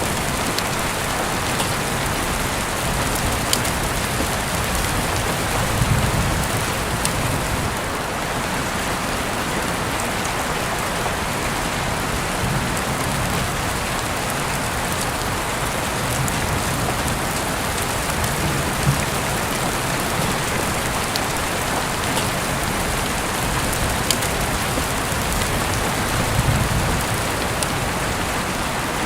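Heavy rain falling steadily, with scattered sharp ticks of single drops striking close by and a few brief low swells.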